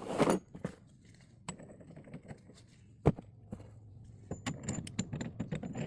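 Metal tools and sockets clinking and clattering while being sorted through, with a single louder knock about three seconds in and a quick run of clinks in the last second and a half.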